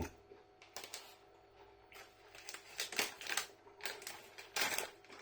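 Scattered light clicks and crinkling handling noises, with a longer rustle near the end.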